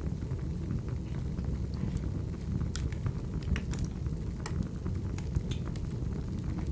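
Wood fire crackling: a steady low rumble of burning with irregular sharp pops and snaps scattered through it.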